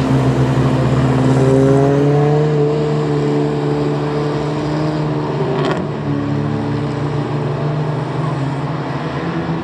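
Race trucks' engines running hard around a short oval track, the engine note climbing steadily in pitch as they accelerate, then breaking off and picking up again. A short sharp click comes about six seconds in.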